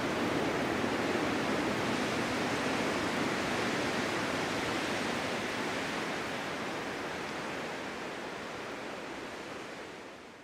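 Steady snowstorm wind blowing as an even rushing noise, fading out gradually over the second half and dropping away at the end.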